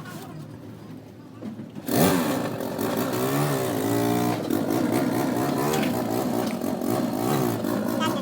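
An engine starts running about two seconds in and is revved up and down over and over, its pitch rising and falling every fraction of a second.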